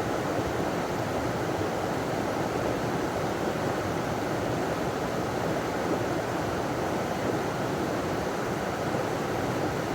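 River water pouring over a small waterfall, a steady, even rush.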